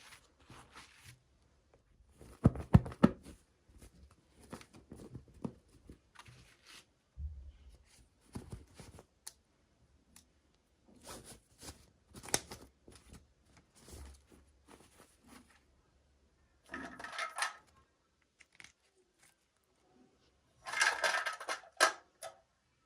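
Hands unwrapping toy packaging: scattered clicks and short rustles, with two longer bouts of crinkling and tearing, one midway and one near the end.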